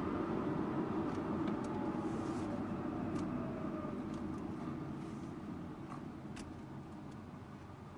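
Road and drivetrain noise inside a Subaru Impreza Sports Wagon's cabin, dying away steadily as the car slows, with a faint falling whine early on and a few light clicks.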